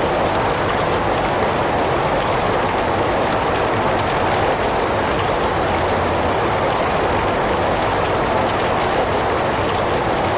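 Heavy rain falling steadily: an even, unbroken hiss, fullest in the middle of the range, with no single drops or gusts standing out.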